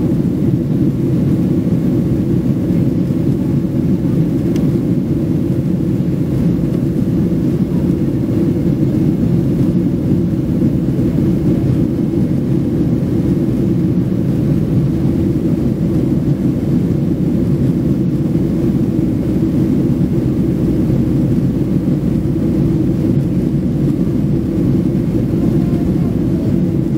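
Steady jet-engine and airflow rumble heard inside an airliner cabin in flight.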